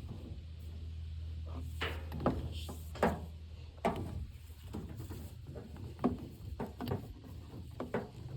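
Irregular knocks, clanks and clicks of tools being handled and moved about in a pickup's toolbox, over a low hum that stops about halfway through.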